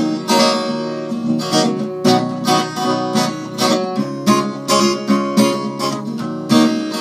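Acoustic guitar strummed in a steady rhythm, about two strokes a second, chords ringing between the strokes.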